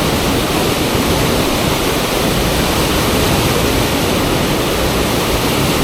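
Fast river water rushing steadily over a standing wave used for river surfing, a loud even roar with no breaks.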